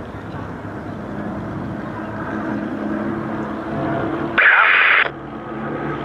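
Aircraft engines droning steadily. A little over four seconds in, a loud hiss of radio static bursts in and cuts off abruptly after under a second, like an air-band radio squelch.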